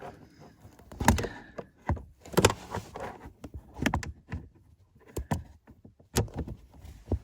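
A hand tool working on the front mounting nut under a Toyota Avensis driver's seat: scattered sharp clicks and knocks at uneven intervals, about nine in all, with quieter handling noise between them. The nut is being loosened slightly to cure the seat adjuster's squeak.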